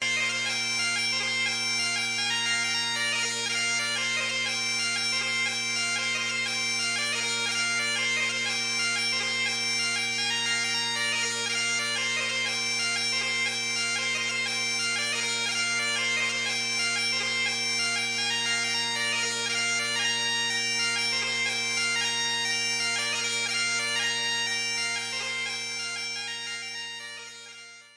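Bagpipes playing a tune: a melody over steady, unchanging drones, fading out near the end.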